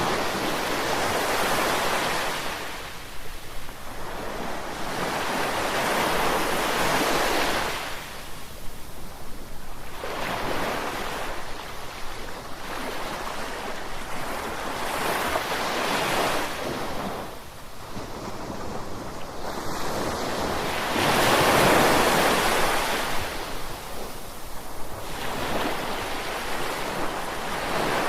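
Gentle ocean waves surging in and falling back, about six swells, one every four to five seconds. The loudest comes about three quarters of the way through.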